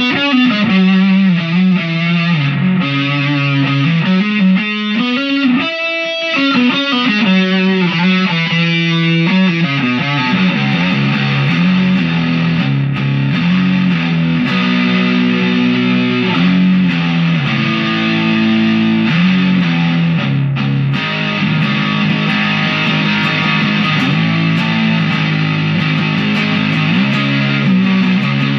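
Chapman SAR63 electric guitar played through distortion in a continuous rock playthrough.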